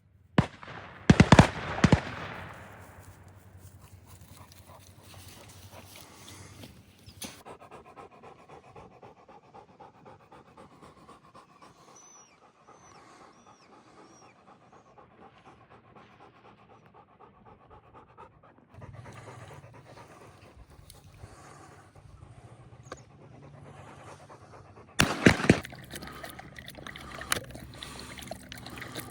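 Bird dog panting hard during a retrieve. Loud sudden bangs come in a cluster about a second in and again near the end.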